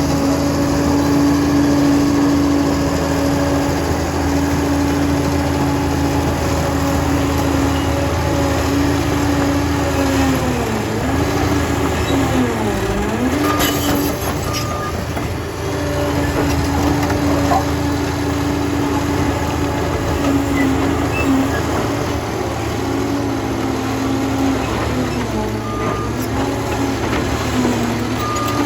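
Liebherr 746 crawler dozer's diesel engine running steadily under load, its pitch sagging briefly twice around the middle as it lugs and recovers. A few short high beeps sound around the middle and again near the end.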